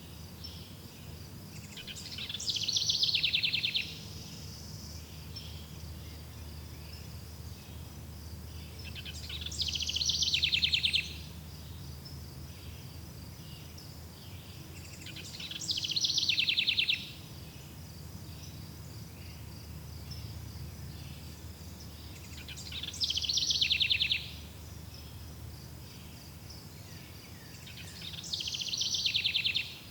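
A songbird's rapid trill, repeated five times at intervals of about six or seven seconds, each phrase about two seconds long, growing louder and then stopping abruptly. Beneath it, crickets chirp steadily.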